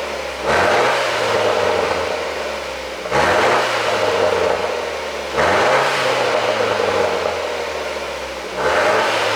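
BMW 428i's turbocharged four-cylinder engine revved in four short throttle blips, one every two to three seconds. Each blip is followed by a rough, noisy stretch from the exhaust of an ECU tune made to pop and crackle.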